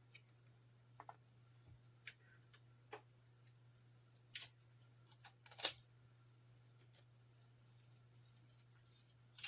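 Scattered light clicks and taps of thin polystyrene model parts being handled on a workbench, the two loudest a little after four and five and a half seconds in, over a faint steady hum.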